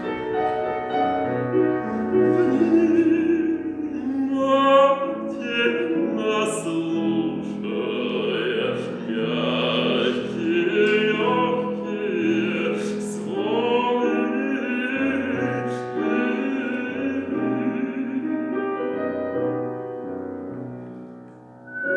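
Music: a man singing in an operatic style to piano accompaniment.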